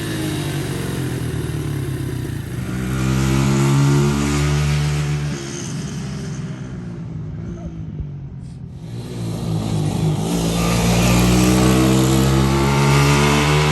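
A 125cc ATV's single-cylinder four-stroke engine revving as it is ridden: the pitch climbs and drops with the throttle, the sound fades away about halfway through and comes back louder near the end. Freshly tuned up, the engine has a note that sounds to the mechanic as if it had a performance cam in it.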